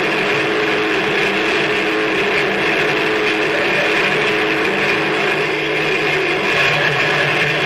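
Noise music: a dense, unbroken wall of distorted noise with low droning tones underneath, holding steady without breaks.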